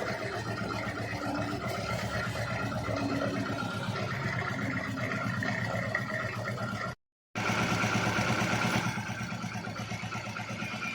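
Hero Splendor motorcycle's single-cylinder four-stroke engine idling with a steady, rapid putter. It breaks off briefly just past the middle, then runs a little louder for about a second and a half before settling back.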